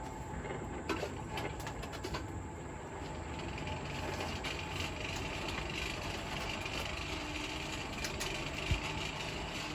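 A forge running with a steady rushing noise, with a few faint clicks.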